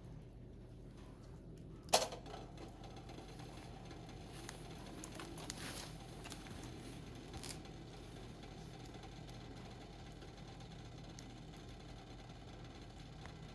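Firewood burning in a Picogrill fire pit, with one sharp, loud pop about two seconds in and a few fainter crackles after it.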